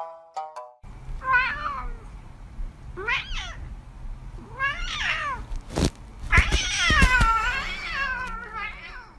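Domestic cat meowing repeatedly: three short meows that rise and fall, then a few sharp knocks and a long, drawn-out meow followed by a shorter one near the end.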